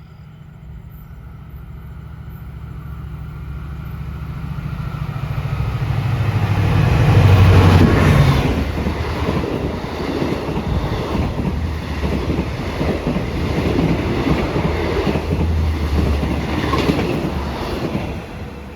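Diesel-hauled train approaching and passing close by. Its locomotive's engine drone grows to its loudest about seven seconds in, then the wheels of the cars clatter steadily over the rail joints, easing off near the end.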